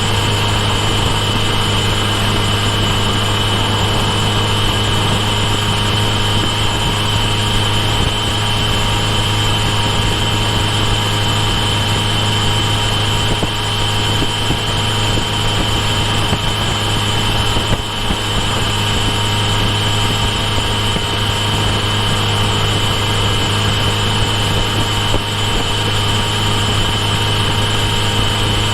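Kawasaki Ninja H2 SX motorcycle's supercharged inline-four engine running steadily, a constant drone with a steady high whine above it.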